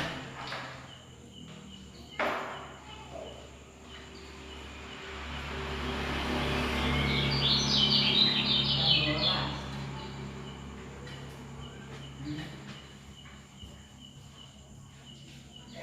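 Caged songbird singing a rapid, dense burst of chirping notes about halfway through, over a low rumbling background that swells and fades.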